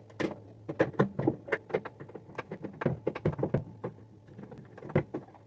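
Irregular light clicks and taps, several a second, from screws and the microwave's metal housing being handled and fastened during reassembly.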